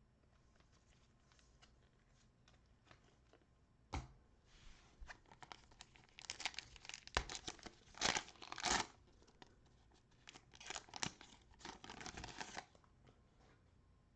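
Crinkly cellophane wrapper of a 2020-21 Prizm basketball cello pack being handled and torn open. A sharp click comes about four seconds in, then several seconds of crackling with a few loud rips.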